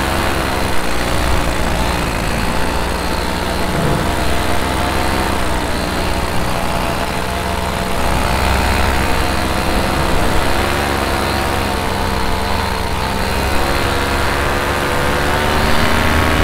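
Minari F1 two-stroke paramotor engine running steadily in flight, its pitch rising and falling slightly with the throttle.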